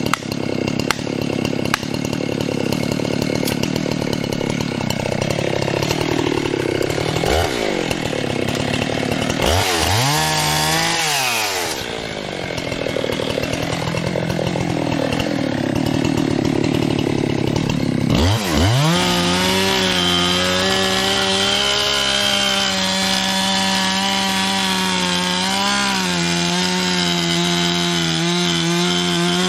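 Husqvarna 385 XP chainsaw cutting through a large black cherry trunk, with the engine pitch dipping and climbing back several times as the throttle and load change. In the last third it runs at steady high revs.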